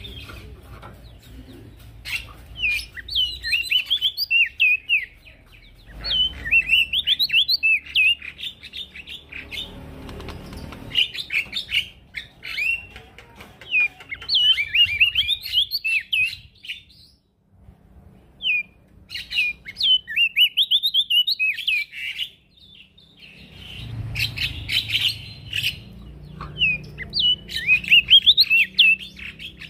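Male prenjak daun songbird singing in repeated bursts of quick, jumbled, twittering high chirps, each burst lasting a few seconds with short pauses between.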